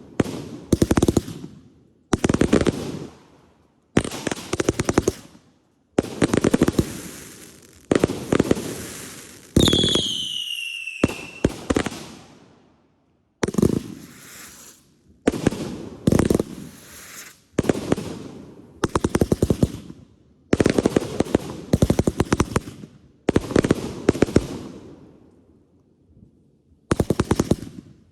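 Consumer fireworks going off: a burst about every two seconds, each a dense run of crackling pops that fades out. About ten seconds in, a whistle falls in pitch over a second or two.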